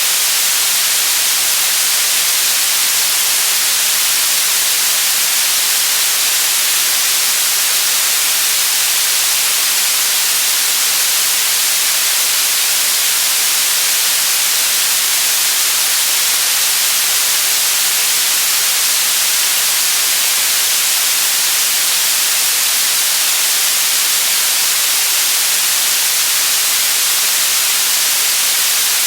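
Steady electronically generated white noise: an even, unchanging hiss, loudest in the highs, with no events or changes.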